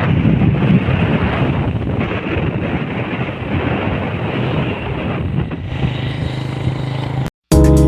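Motorcycle running along the road while being ridden, its engine rumble mixed with wind buffeting the microphone. Near the end the sound cuts off abruptly and music starts.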